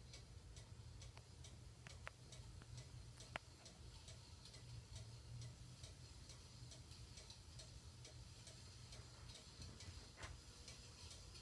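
Hunter ceiling fan running slowly: faint, regular ticking about three times a second over a low hum, with one sharper click about three seconds in. The fan is faulty and noisy enough that the owner plans to take it down and repair it.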